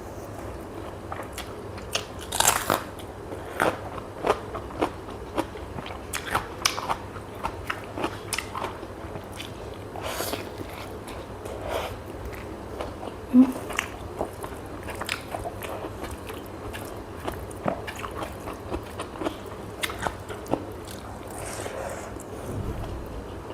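A person eating close to the microphone: irregular crunchy bites and chewing, with wet mouth clicks. One brief, louder low tone sounds about halfway through.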